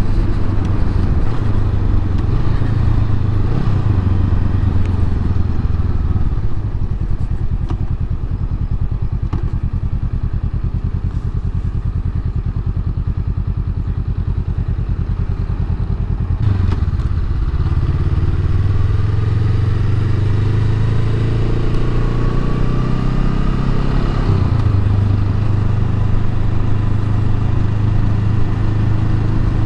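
Honda Rebel 500's parallel-twin engine running through its stock muffler while riding. The note dips about sixteen seconds in, then the revs climb steadily and fall back a little after twenty-four seconds.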